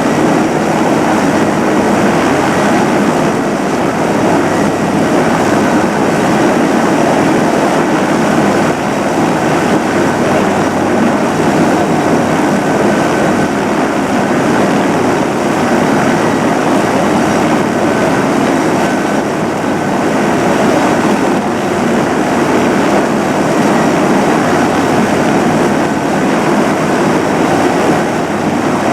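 Police helicopter's turbine engine and rotor running loud and steady, with a faint steady high whine over the noise.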